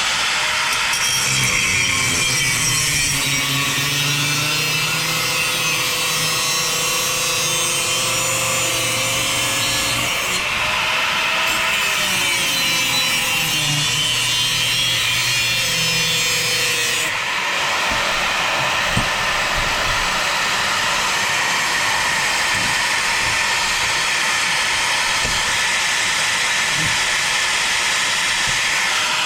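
Corded angle grinder with an abrasive cut-off disc cutting through an exhaust pipe: a steady, loud grinding with a wavering motor whine. About 17 seconds in the whine drops away and the cutting noise carries on harsher.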